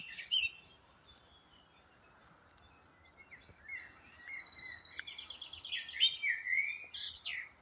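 A songbird singing: the end of a phrase at the start, then after a couple of seconds' pause a fast run of repeated high notes that turns into a varied warbling phrase of chirps and slurred whistles.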